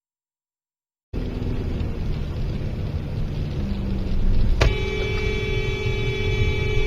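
Car driving, with steady road and engine noise starting about a second in. Later comes a sharp knock, followed by a steady tone with many overtones that keeps sounding.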